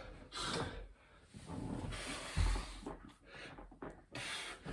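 Hard breathing and rustling of a person doing burpees, with one heavy thud about halfway through as the body lands on the floor.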